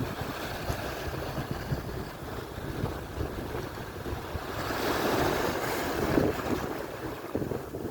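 Atlantic surf on the shore: a steady wash of waves, with one wave breaking and rushing in louder about halfway through. Wind buffets the microphone with a low rumble.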